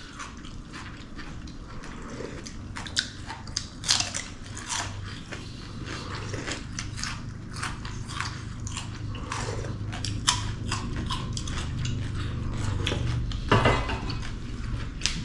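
Close-up eating sounds: chewing and biting, with many short irregular clicks and small crunches over a steady low hum.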